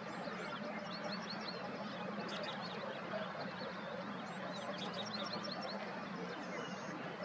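Birds chirping: quick runs of short, high notes, one near the start, a short one in the middle and a longer one about two-thirds through. They sit over a steady low hum and outdoor background hiss.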